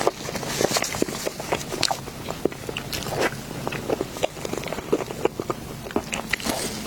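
Close-miked eating sounds: a person chewing and biting soft dessert, with many small wet clicks and crackles of the mouth at an uneven pace.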